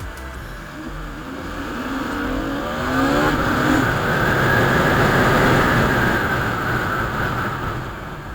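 Motorcycle engine accelerating, its pitch rising, then a loud rush of engine and wind noise that swells and fades while riding.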